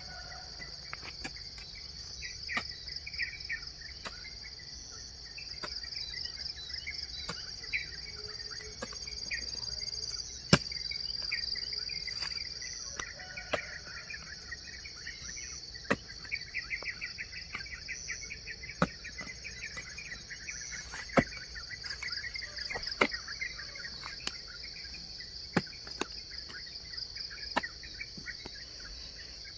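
A steel hoe chopping into soil in sharp, irregular strokes every second or two. Under it runs a steady high insect drone and the warbling chirps of songbirds.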